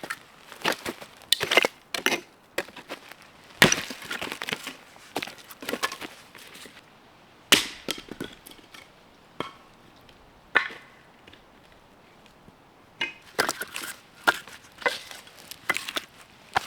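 Firewood being split by hand: a series of sharp strikes and cracks of wood, the loudest about four and seven and a half seconds in, with a short lull a little after ten seconds.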